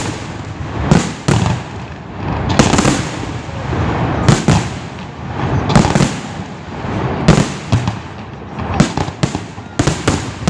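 Large aerial fireworks display: shells bursting with sharp booms every second or so, some in quick clusters, over continuous rumbling and crackling.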